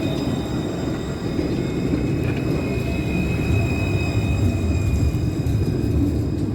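Electric tram running, a steady low rumble with thin high-pitched whines from its traction equipment, one of them swelling about two seconds in and fading near the end.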